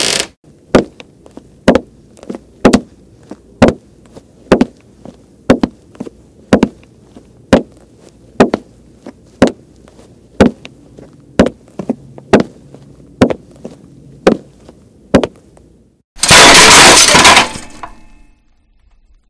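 Regular sharp knocks, about one a second with fainter ones between, for some fifteen seconds. Then a loud crash of dishes smashing that dies away over about a second and a half.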